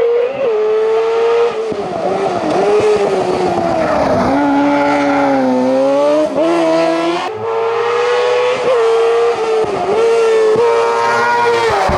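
Race car engine at hard throttle on a hillclimb course. Its pitch climbs and then drops sharply again and again, with each gear change and lift off the throttle.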